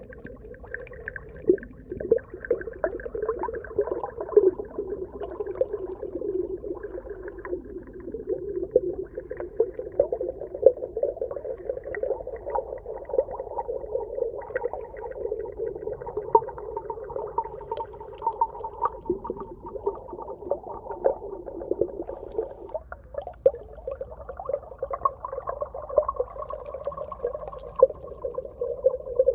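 Underwater ambience: a steady, muffled wash of sound with dense crackling, centred low, with a higher hum rising in over the last few seconds.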